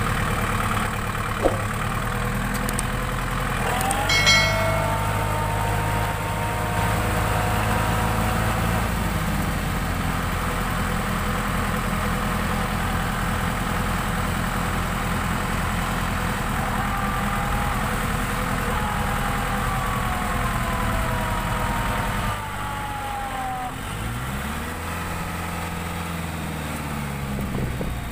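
Diesel tractor engine running steadily. About 22 seconds in, the engine note drops and wavers as the revs come down. A brief high-pitched tone sounds about four seconds in.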